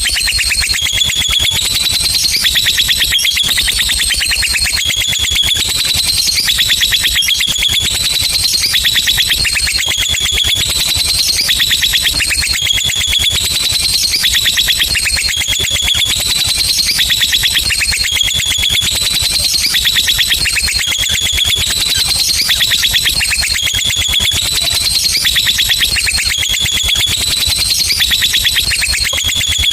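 Lovebird singing a long, unbroken 'ngekek' trill: a very rapid, high-pitched chatter that steps up and down in pitch every second or two without pausing.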